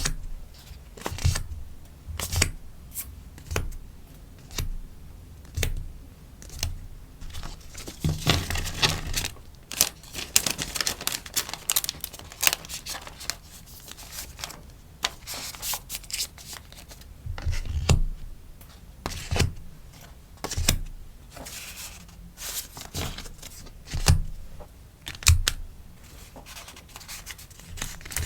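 Stickers and packaging being handled during order packing: crinkling plastic and paper rustling, with many light taps and clicks. There is a longer stretch of dense crinkling about eight to thirteen seconds in.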